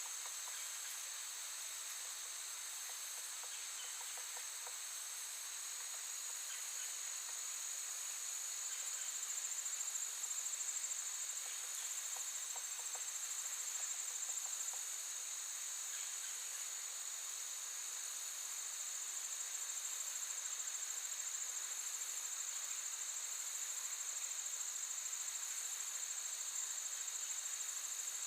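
Insect chorus: many insects, crickets or the like, trilling steadily in an unbroken high-pitched drone.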